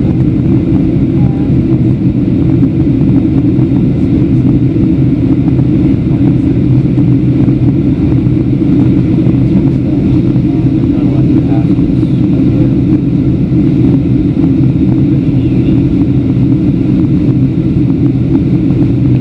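Steady, loud in-flight noise inside the cabin of a Boeing 737-700 in descent: its CFM56-7B engines and the airflow over the fuselage, mostly a low, even rumble.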